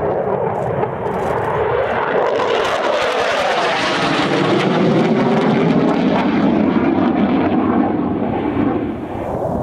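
Military aircraft flying past, its engine noise swelling with a sweeping change in tone as it passes, then thinning near the end.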